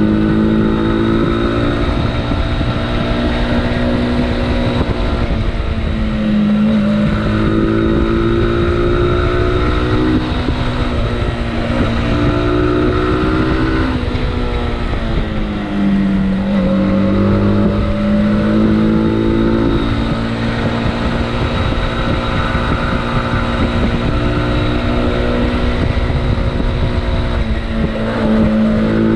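Motorcycle engine under way while riding, its revs climbing and dropping several times.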